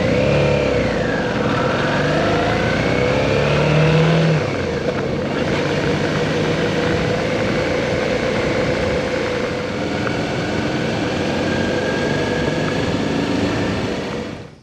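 Motorcycle engine running while riding, its pitch rising and falling over the first few seconds and then holding steady, with a constant rush of road and wind noise; it cuts off abruptly at the end.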